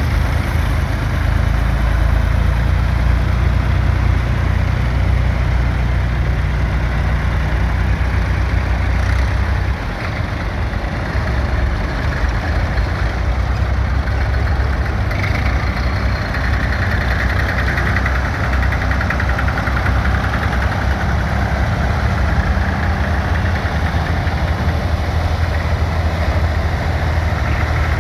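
Vintage tractor engines running, a steady low rumble that dips and changes about ten seconds in.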